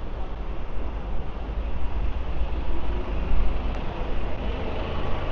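Busy city street traffic: vehicle engines running close by, with a steady heavy low rumble.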